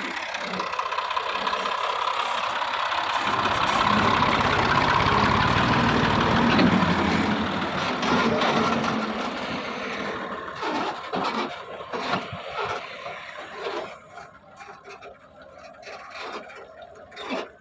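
Tractor engine running as a loaded tractor-trolley comes down a ramp. It grows louder over the first several seconds, then fades away through the second half.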